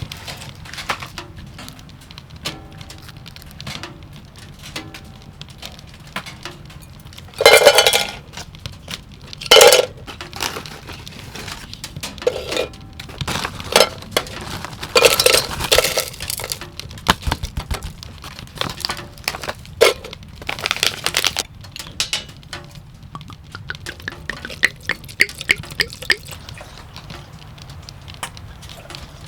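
Cookware and utensils being handled, with scattered clinks and clatters and two loud knocks about eight and ten seconds in.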